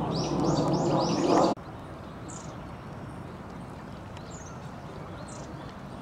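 Birds chirping: a quick run of about five high chirps over a louder low background noise, which cuts off abruptly about a second and a half in. After that, a quieter outdoor background with a few scattered high chirps.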